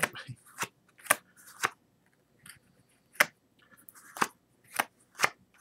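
Playing cards turned over and snapped down onto a table one at a time: about eight sharp slaps, mostly half a second apart, with a pause in the middle.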